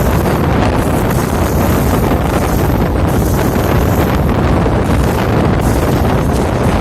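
Loud, steady wind buffeting the microphone: a dense, unbroken rumble with no distinct events.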